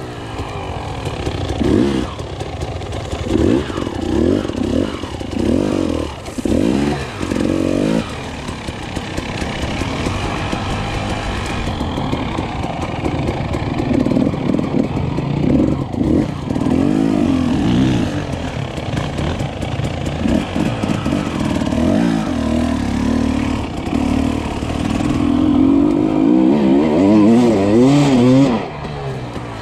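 KTM 300 XC-W two-stroke enduro motorcycle engine heard from the rider's helmet, revving up and down over a rough trail. It gives short throttle blips in the first several seconds, then runs more steadily, with its pitch climbing near the end before the throttle is shut off.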